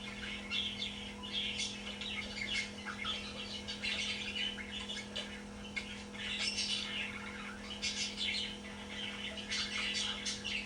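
Budgerigar chirping and chattering in quick, continuous high twitters, over a steady low hum.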